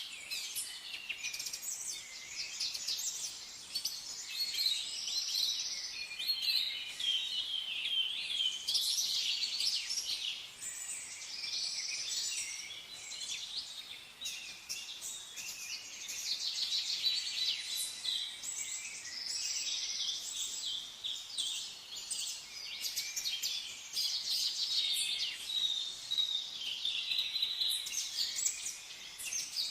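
Many small songbirds chirping and singing at once, high-pitched calls overlapping without pause.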